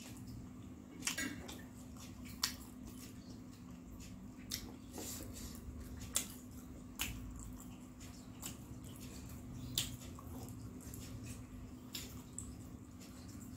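Close-miked mouth sounds of someone chewing fried snacks: scattered wet clicks and smacks every second or so, over a steady low hum.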